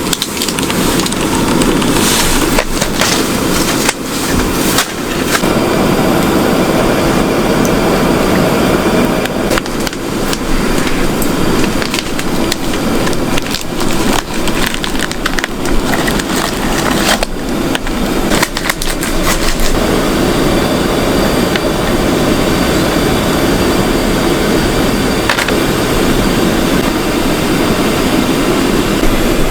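Wood fire burning with a steady rush, crackling and popping with many sharp snaps throughout.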